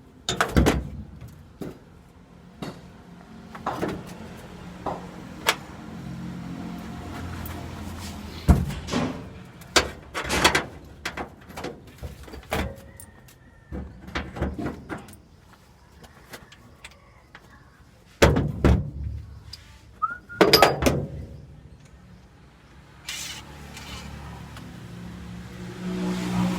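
Scattered metallic knocks, clanks and clicks of tools and parts during work on a truck transmission, some sharper and louder than others, with a low hum underneath in places.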